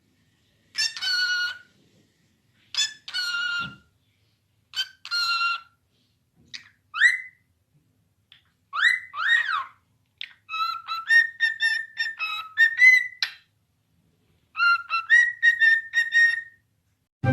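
A pet parrot calling and whistling: three short calls about two seconds apart, then two rising whistles, then two runs of quick, clipped whistled notes near the end.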